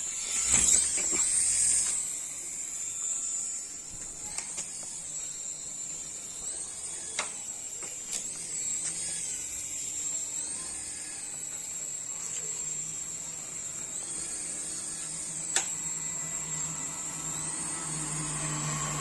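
Small electric motors of a toy remote-control flying aircraft running with a high whine, the pitch stepping up and down several times as the rotor speed changes. A few sharp clicks are heard along the way.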